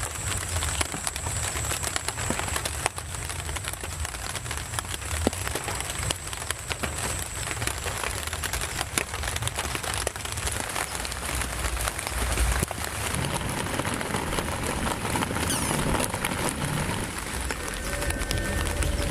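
Heavy rain falling steadily, a dense patter of countless small drop hits over a low rumble.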